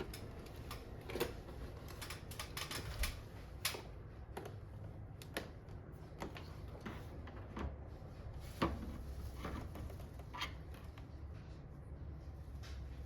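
Irregular clicks and taps of plastic covers, clips and screws being handled as a Fujitsu Nocria wall-mounted air conditioner is taken apart, over a low steady hum.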